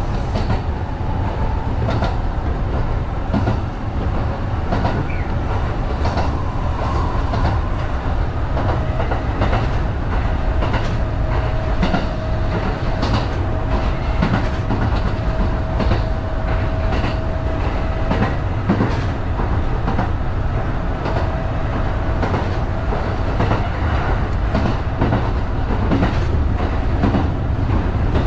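Kintetsu 1010-series local train running along the line, heard from inside the front of the train: a steady low rumble with the wheels clicking over rail joints. A steady thin whine joins about nine seconds in and holds.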